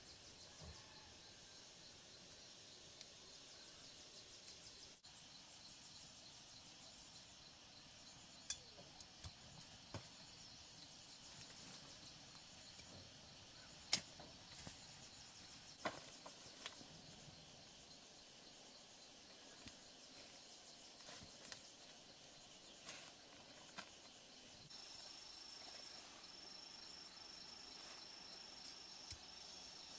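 Faint forest ambience: a steady high insect buzz with a few scattered sharp clicks or knocks. Near the end a high, evenly pulsing insect chirp joins in.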